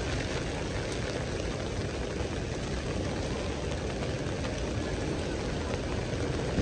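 Heavy downpour: a steady hiss of rain falling on wet pavement, with low, steady traffic noise underneath.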